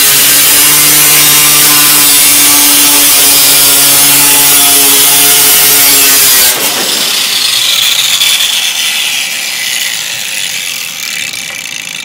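Power tool cutting through car body sheet metal, running steadily at an even pitch, then switched off about six and a half seconds in, leaving a higher whir that fades away.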